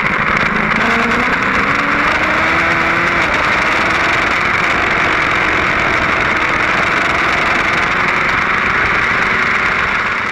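BMW S1000RR's inline-four engine running hard under acceleration at high revs. Its pitch rises over the first few seconds and then holds steady, under a heavy wind rush on the onboard microphone at around 180 km/h.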